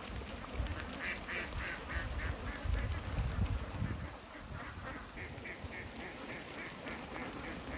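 Flock of domestic ducks quacking, a fast run of short calls about four a second that starts about a second in, over a low rumbling noise that eases off about halfway.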